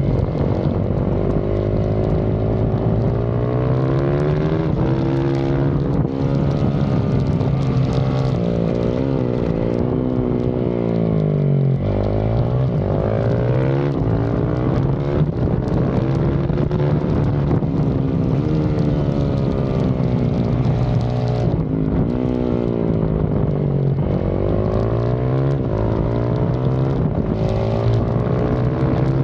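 Yamaha YZ450FX's single-cylinder four-stroke engine at full race pace, heard close up. The pitch climbs and falls over and over as it accelerates, shifts and slows for corners, dropping lowest about twelve seconds in.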